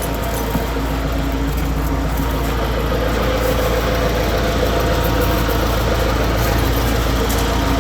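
An engine running steadily at a constant speed, a loud, even hum over a low rumble.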